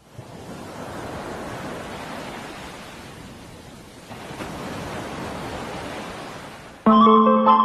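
Steady rushing of a waterfall's falling water, cut off abruptly near the end by music with guitar.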